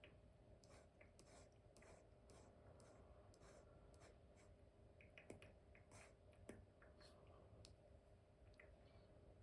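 Apple Pencil tip with an Elecom nib stroking across an iPad's paper-like screen film: faint, repeated short scratchy strokes, with a couple of sharper taps just past the middle.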